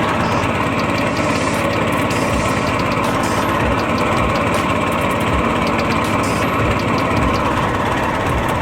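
Predator 224cc single-cylinder four-stroke engine on a long-tail mud motor, running steadily and pushing a small flat-bottom boat.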